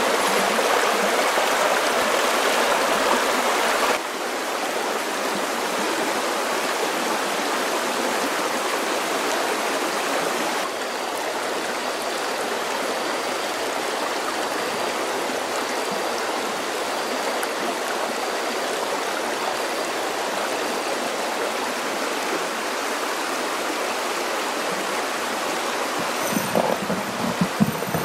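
Steady rush of flowing water, with abrupt shifts in level about four and eleven seconds in. A few soft knocks come near the end.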